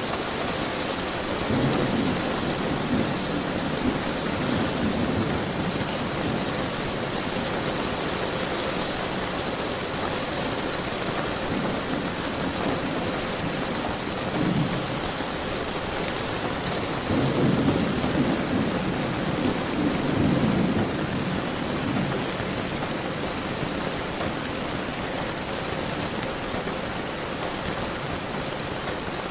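Steady heavy rainfall with rolling thunder, the rumbles swelling several times and loudest past the middle.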